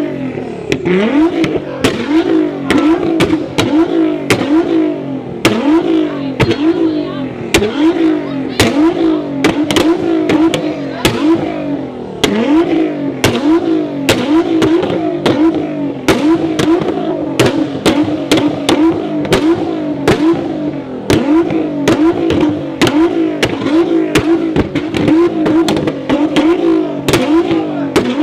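A tuned performance car's engine revved hard in quick repeated blips, the pitch jumping up and dropping back over and over, with many sharp exhaust pops and bangs between the revs.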